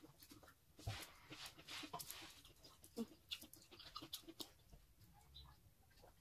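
Faint eating sounds: chewing with small mouth clicks and a few light taps of fingers handling food.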